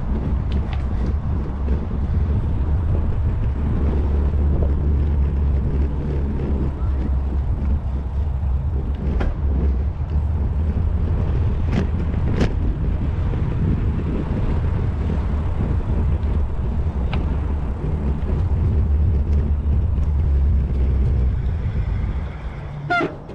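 Steady low rumble of wind buffeting and road noise on a GoPro riding on a moving bicycle, with a few sharp clicks or rattles. Near the end it eases off, and there is a brief squeal.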